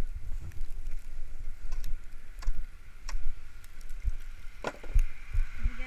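Gusty wind rumbling on the microphone, with scattered clicks and knocks.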